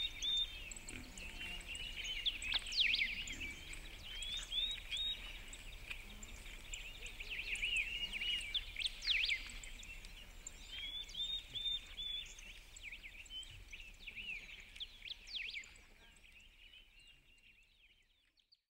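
Birds chirping and singing, many short rising and falling calls overlapping, fading out near the end.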